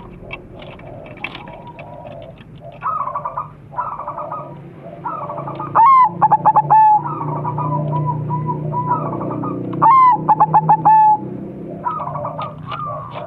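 Crossbred zebra doves (perkutut) cooing in overlapping phrases. Twice a loud rising note breaks into a quick run of short stuttering notes and then trails into a steady coo.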